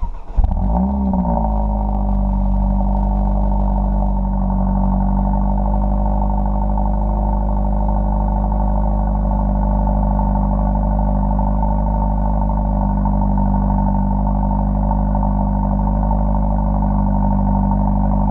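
Mercedes CLA45 AMG's turbocharged 2.0-litre four-cylinder starting up, its revs flaring up and dropping back within the first second and a half, then idling steadily.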